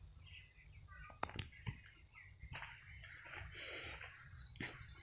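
Faint birds chirping, with a few sharp clicks and some irregular rustling noise.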